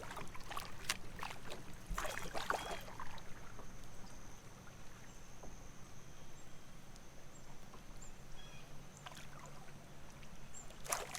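Kayak paddling on a creek: clusters of paddle strokes splashing and knocking just at the start, about two seconds in and again near the end, with quieter water sounds between them.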